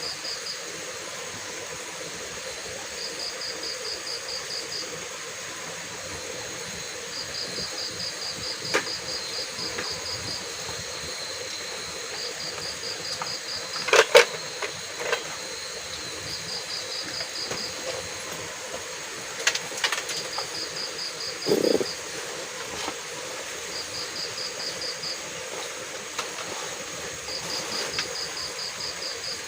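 An insect, a cricket or similar, chirping in short rapid trills that repeat about every four seconds over a steady hiss. A few sharp clicks or knocks stand out, the loudest about halfway through.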